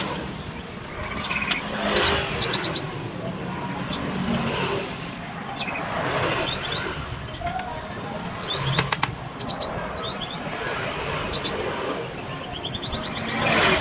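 Hammer tapping small nails into a wooden bird cage's feet, in short runs of sharp taps with a fast even run near the end, over a steady low rumble and small birds chirping.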